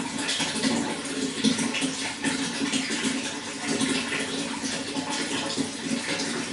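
Running water flowing and splashing steadily, a continuous rushing with small fluctuations.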